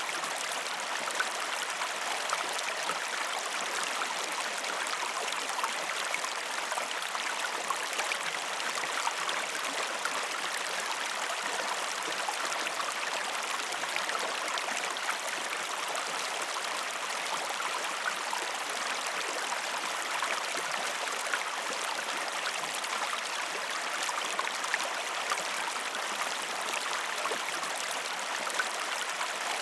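Waterfall and rushing stream water, a steady even splashing rush with small droplet ticks throughout.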